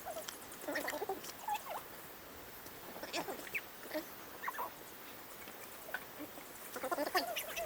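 Short, high, squeaky animal calls, scattered through and bunched together near the end.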